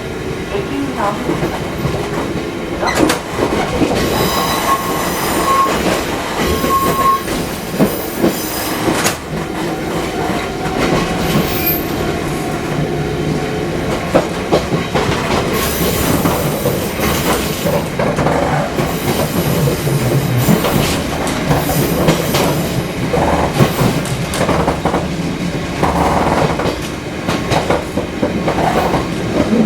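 Fukui Railway 200 series railcar running along the line, its wheels clacking over rail joints, with brief wheel squeals a few seconds in.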